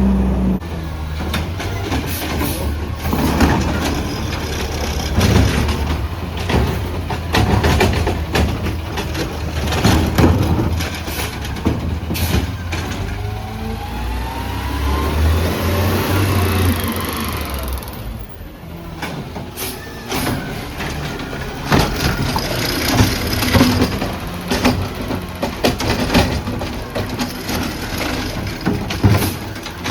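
Garbage truck at work on its route: diesel engine running, with repeated knocks and clatter and rising mechanical whines. The sound drops out briefly about eighteen seconds in, then the truck noise resumes.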